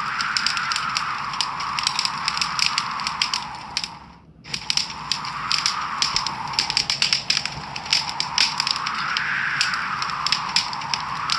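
Wood fire in a fireplace crackling and popping with many sharp snaps, over a soft whooshing that swells and fades every few seconds. The sound drops out briefly about four seconds in, then picks up again.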